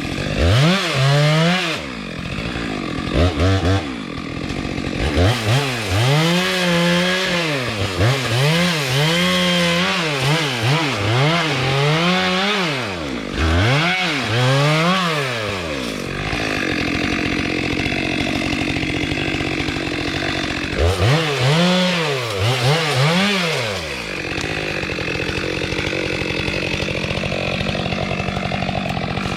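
Two-stroke chainsaw engine revved up and down over and over as the throttle is worked. It settles into steadier running for a few seconds in the middle and again near the end.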